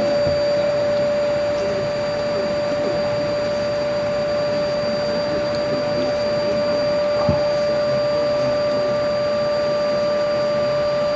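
A steady motor drone with a constant whine, like a fan or blower running, and a single light knock about seven seconds in.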